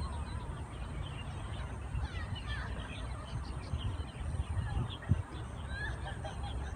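Small birds chirping in short calls over a steady low rumble.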